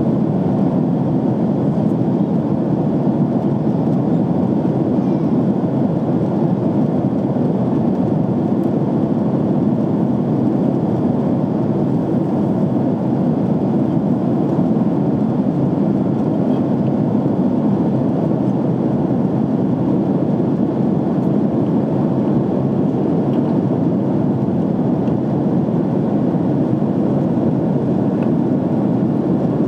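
Airliner cabin noise in flight: a steady rush of air and engines heard from inside the passenger cabin, unchanging throughout.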